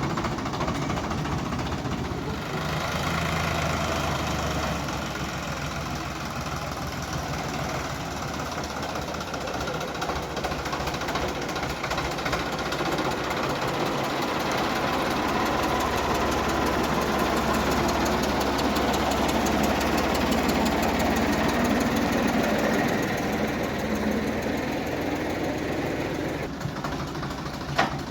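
Sonalika DI 750 tractor's diesel engine running steadily, working harder for a few seconds near the start and again for several seconds in the middle. A sharp click near the end.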